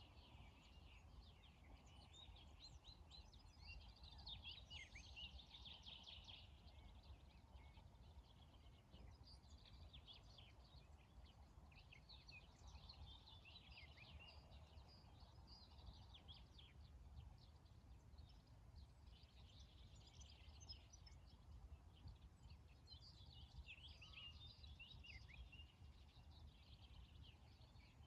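Faint birdsong, with short, quick chirps coming in clusters every few seconds, over a low, steady rumble.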